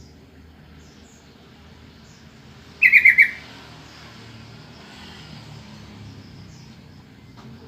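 Sooty-headed bulbul calling: a single quick, loud run of four or five notes about three seconds in, over a steady low background hum.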